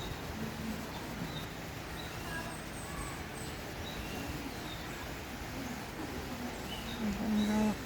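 Steady hiss of falling rain with scattered short chirps of small birds. Near the end a person's voice sounds briefly.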